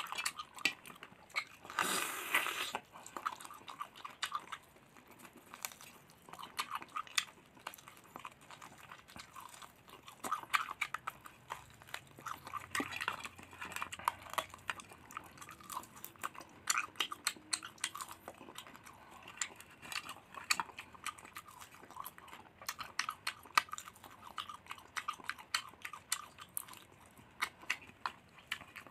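Close-up chewing and biting of crispy fried duck in sweet soy sauce, with many short crunching clicks and a louder burst of noise about two seconds in.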